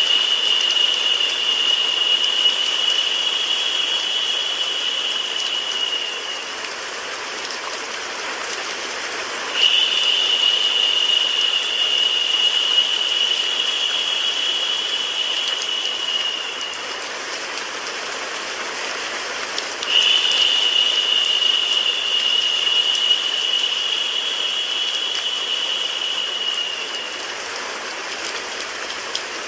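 Recorded rain mixed with white noise, a steady even hiss. A higher, brighter hiss swells in three times, about ten seconds apart, each lasting six or seven seconds before fading.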